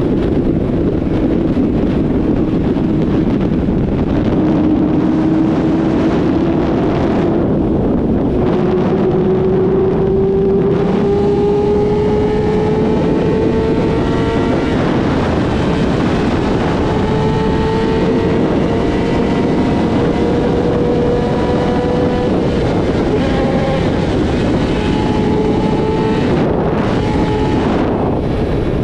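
Yamaha YZF-R6 inline-four engine with a full-system exhaust, running under steady throttle at cruise, its note climbing slowly for most of the stretch and easing off near the end, with wind rushing over the microphone.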